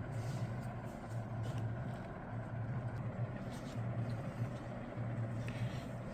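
Steady low hum over a constant broad hiss, with a few faint clicks and taps.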